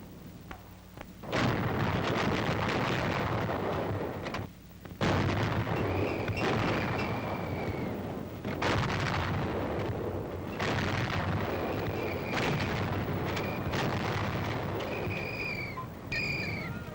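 90 mm antiaircraft guns firing in a series of heavy reports a few seconds apart, each trailing off into a long rumbling decay. A few short high tones sound briefly near the end.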